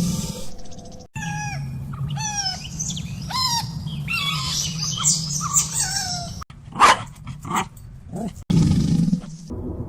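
Animal calls: a run of high calls falling in pitch, about two a second, then three short, loud barks of a puppy near the end.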